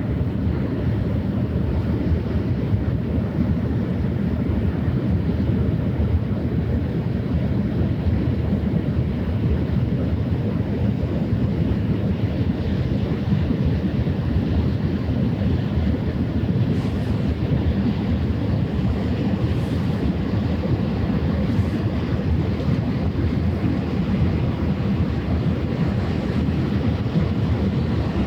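Steady, deep wind rumble on the microphone over open water, mixed with the wash of waves, with no clear engine tone standing out.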